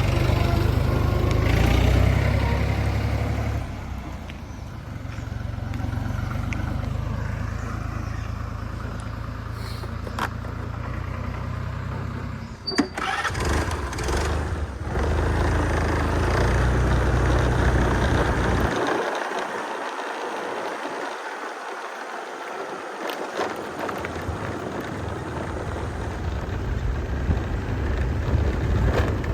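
Tractor diesel engine running steadily, with an abrupt break and a sharp click about 13 seconds in. The low rumble drops out for a few seconds in the second half, then returns.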